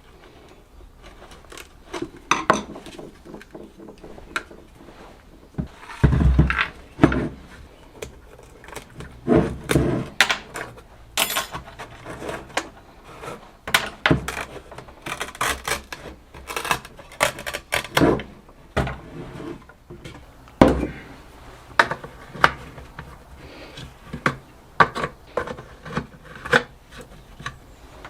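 Small metal parts and hand tools clinking, knocking and scraping against each other and the bench while a 1950s Smiths heater fan motor is taken apart. The clinks are irregular, with a couple of heavier thumps.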